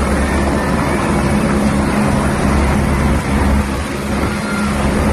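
Helicopter running close by: a steady, loud rotor and engine noise with a low hum, easing slightly in the second half.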